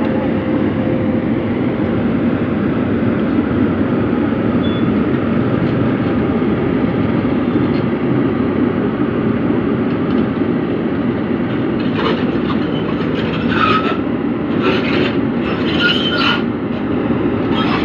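Heavy diesel engine of construction machinery running steadily under load. Over the last six seconds a series of short, sharper, higher-pitched knocks and squeaks sits on top of it.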